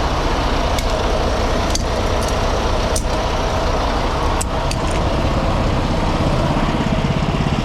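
Semi truck's diesel engine idling steadily. About half a dozen light metallic clicks and clinks in the first few seconds.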